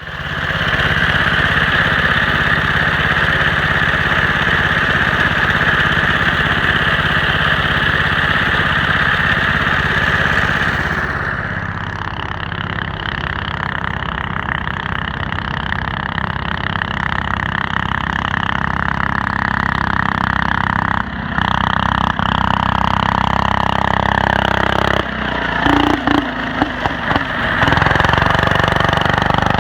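Coleman CT200U-EX minibike's 196 cc single-cylinder four-stroke engine running steadily. It eases off a little about eleven seconds in, and there are several brief dips and jolts late on.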